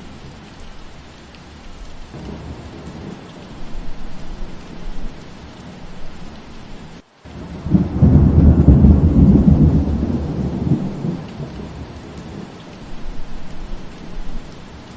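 Steady rain falling, with a loud low roll of thunder starting just past halfway, right after a momentary break in the sound, and fading out over about three seconds. Fainter rumbles swell under the rain earlier on.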